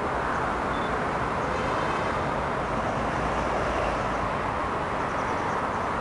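Locomotive hauling a freight train on its approach, heard as a steady rumbling noise that swells slightly as it draws nearer, with faint high tones about two seconds in.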